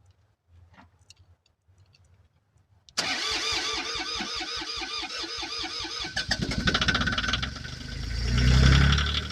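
John Deere tractor engine cold-started at about 28°F: after a few faint clicks, the starter cranks it with a rapid even rhythm for about three seconds, then the engine catches, revs up and settles into a fast run.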